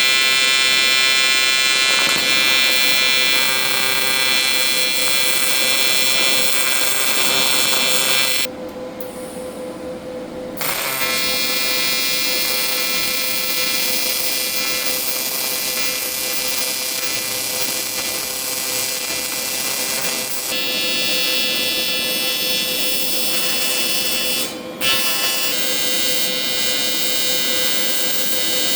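Primeweld TIG 225 welding arc buzzing steadily with a bright hiss. The arc goes out about eight seconds in, strikes again two seconds later, and breaks once more briefly near the end.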